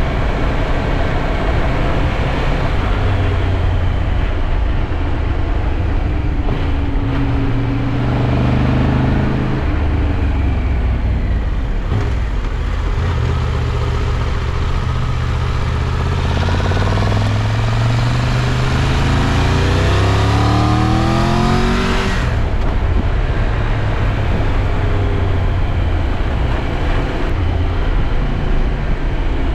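Triumph Tiger 1200 Rally Pro's three-cylinder engine under way, its revs rising and falling. About two-thirds of the way through, the note climbs for several seconds and then drops sharply, as at a gear change. A steady rush of noise runs underneath.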